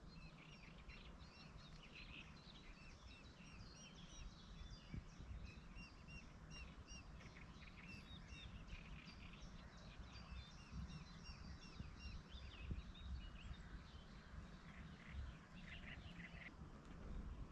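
Faint birdsong: many short chirps and little rising and falling notes from small birds, with no let-up, over a low steady rumble.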